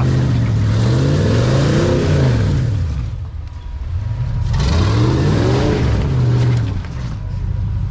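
Rock crawler's engine revving up and dropping back twice under load, working the vehicle over rocks.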